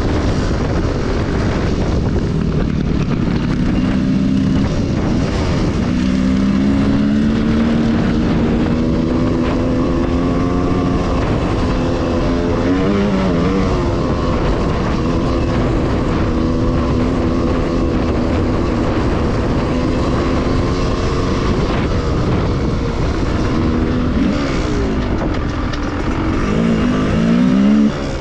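Enduro motorcycle engine running under way. Its pitch holds and steps with the throttle and gears, with quick revs about halfway through and again near the end, over steady rumbling noise.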